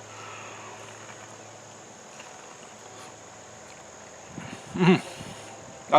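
Steady high-pitched chirring of insects in the background, with a short voiced murmur from a person about five seconds in.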